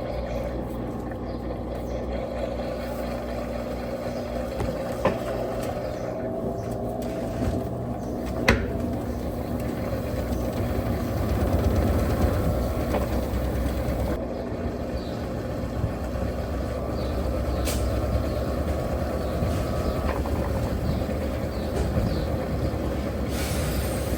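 Electrolux 15 kg top-loading washing machine running through its wash cycle: a steady motor hum with faint pitch glides as it drives the agitator, and a couple of sharp clicks.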